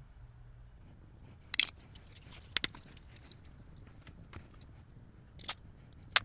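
A few sharp, separate metallic clicks and clinks of small parts or tools being handled during carburetor work, with stretches of quiet between them.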